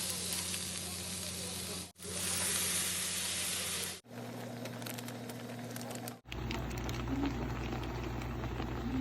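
Food sizzling in a frying pan, in several short clips cut together with brief silent gaps. The sizzle is brightest and loudest in the first four seconds; the later clips carry quieter cooking noise over a steady low hum.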